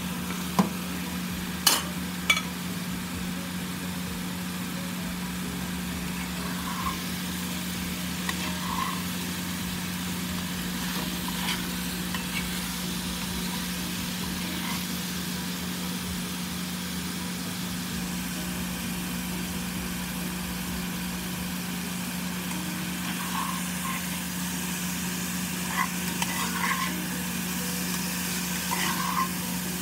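Chicken and sliced capsicum and onion sizzling in a cast iron pot while a spatula stirs them, scraping and knocking against the pan. A few sharp clinks come in the first couple of seconds as the vegetables go in, and a steady low hum runs under the sizzle throughout.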